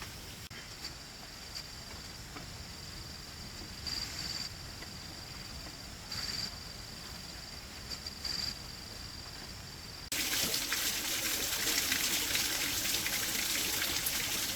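Heavy rain starts abruptly about ten seconds in, a loud even rushing, hard enough that water is running into the house. Before it there is only a quiet outdoor background with a steady high-pitched buzz that swells briefly three times.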